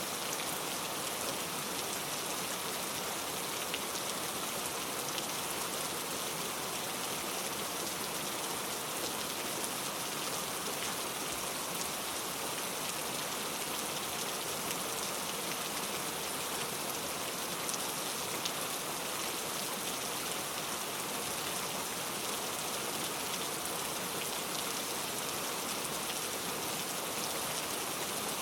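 Steady rain falling and pattering on a surface, with scattered drop ticks and no thunder.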